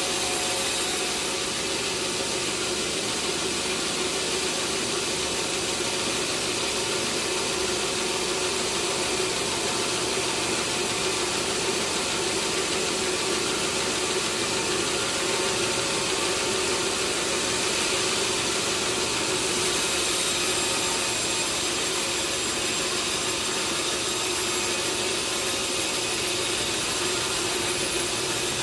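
Sawmill saw running through a large teak log: a steady, unbroken machine noise with a strong hiss and a low hum underneath.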